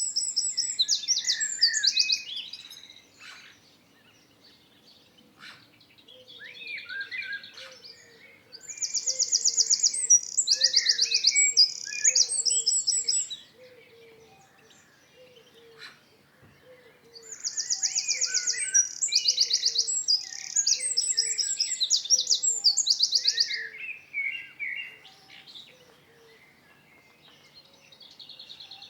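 Songbird singing in long phrases of rapid high trills and chirps, each several seconds long with pauses of a few seconds between them. A faint low call repeats steadily underneath through the middle stretch.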